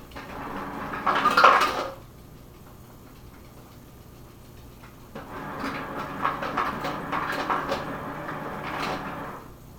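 Kitchen handling noise: dishes, utensils and containers clattering, in a short spell at the start and a longer one from about halfway to near the end.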